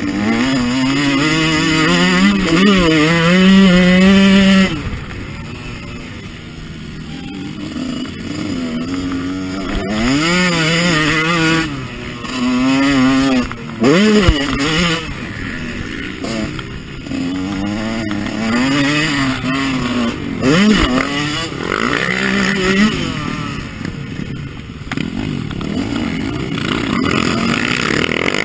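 Husqvarna CR 125 two-stroke motocross engine, heard from on the bike, revving hard through the gears on a dirt track. Its pitch climbs and drops repeatedly as the throttle opens and closes, and the throttle is chopped about five seconds in.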